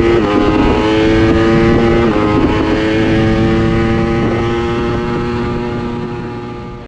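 2018 Ducati Panigale V4's 1103 cc V4 engine through an Akrapovic exhaust, accelerating hard under full throttle. The pitch drops with an upshift right at the start and again about two seconds in, then climbs again through the gears. Wind rushes underneath, and the sound fades out near the end.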